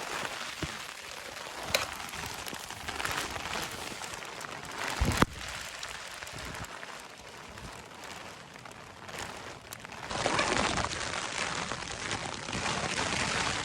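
Wind buffeting a small tent, the fabric rustling and flapping, with two sharp snaps in the first half and a stronger gust from about two-thirds of the way in.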